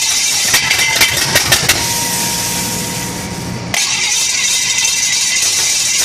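Chevrolet 350 small-block V8 being started on a test stand: a few sharp clicks, then about three seconds of steady cranking or running that stops abruptly.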